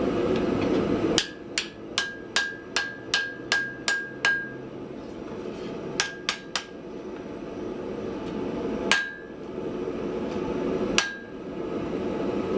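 Hand hammer striking steel on an anvil, drawing down a piece of spring steel for a post vise spring: a quick run of about nine ringing blows, a pause, three more, then two single blows. A steady rushing noise from the lit forge runs underneath.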